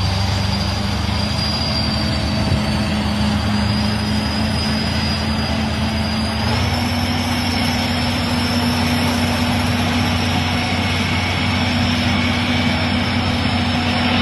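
Heavy Soviet tractor diesel running steadily under load, with a low hum and a high whine over the engine noise; the pitch steps up slightly about six and a half seconds in.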